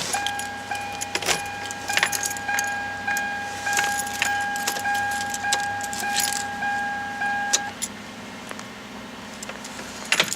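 Toyota Corolla's warning chime beeping steadily, repeating about every half second, with the key in the ignition before the engine is started, over keys jangling and clicking; the chime cuts off about three-quarters of the way through.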